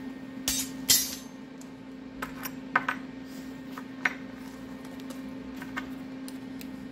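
Metal pieces clinking and knocking as they are handled, two louder knocks in the first second and then scattered lighter clinks, over a steady low hum.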